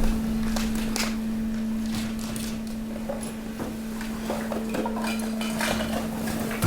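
Hydraulic waste compactor pressing mixed waste: the hydraulic pump hums steadily while the load cracks, clinks and crunches in scattered snaps. A heavy thump comes at the very end.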